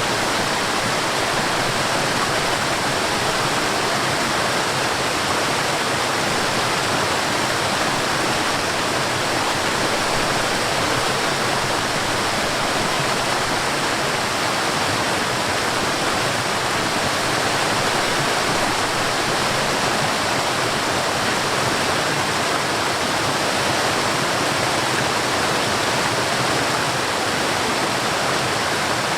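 Forest waterfall: water falling and rushing in a steady, unbroken hiss with no changes.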